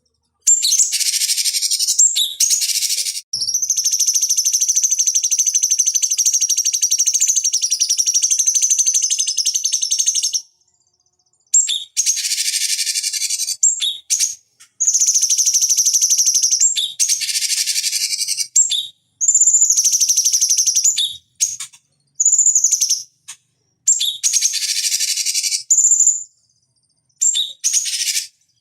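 Cucak cungkok (a leafbird) singing loudly in high, rapid chattering phrases: one long run of several seconds early on, then a string of shorter bursts with brief pauses between them.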